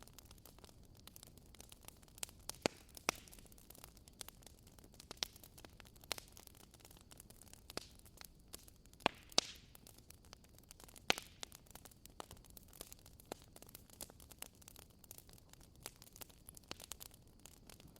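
Wood fire crackling in a fireplace: irregular sharp pops and snaps over a faint steady hiss, with a handful of louder pops scattered through.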